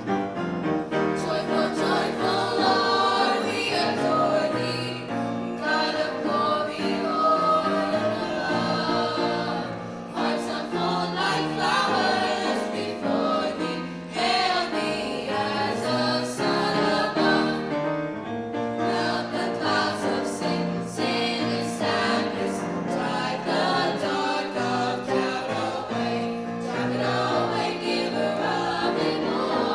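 A high school choir singing holiday music.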